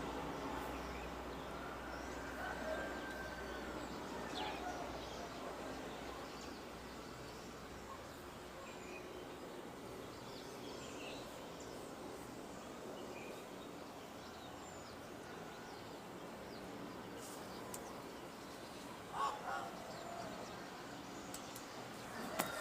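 Steady outdoor background noise with scattered bird calls, including two louder calls about nineteen seconds in. A low rumble, such as a passing plane, dies away over the first eight seconds.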